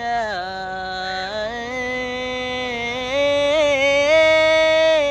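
A solo voice singing long held notes, stepping up in pitch twice and ornamented with a short wavering turn, the last held note the loudest.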